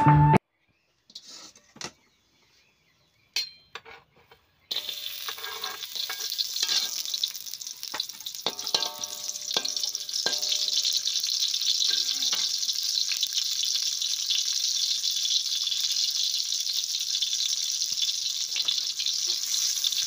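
Sliced shallots sizzling in hot oil in a wok, starting suddenly about five seconds in after a few faint knocks, while a spatula stirs them, clinking and scraping against the pan.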